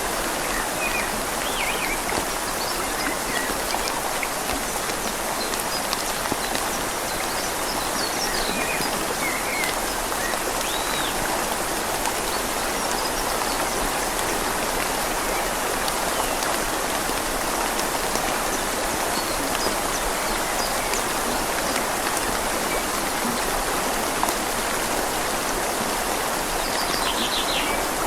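Steady rain falling on leaves over a gently flowing river: an even hiss of water, with a few faint high chirps now and then.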